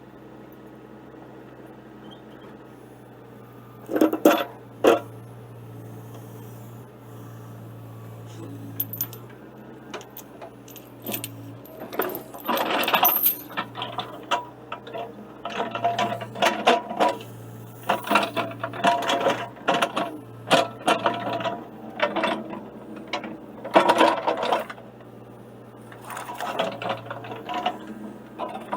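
Excavator engine running steadily under repeated loud metallic clinking and rattling of a steel chain, in clusters from about four seconds in and near-continuous from about twelve seconds on, as the chain is wrapped and tightened around a rusted iron post to pull it from the ground.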